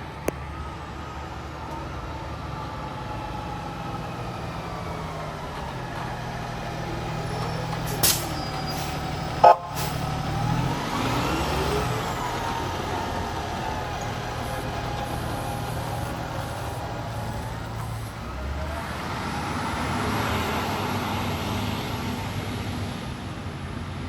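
Fire engine's engine running, with a sharp air-brake hiss about eight seconds in and a loud short blip a second later. Then comes a brief siren sound that rises and falls in pitch. Near the end the engine grows louder as the truck moves off.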